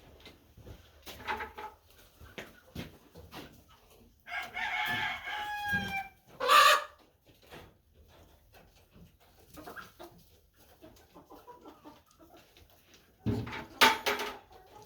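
Chickens calling, with a rooster crowing for under two seconds about four seconds in, its pitch falling at the end, and two loud short squawks later on.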